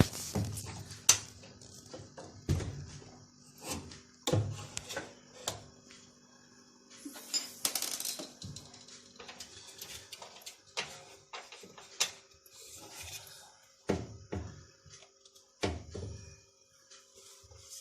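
Clicks, taps and knocks of hand tools and screws as the two screws fixing an automatic washing machine's drain pump are driven in and tightened, with a short scraping hiss about halfway through.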